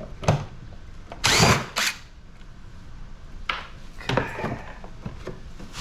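Power drill-driver run in two short trigger bursts a little over a second in, backing screws out of an air conditioner's sheet-metal casing, with scattered clicks and knocks of metal parts around them.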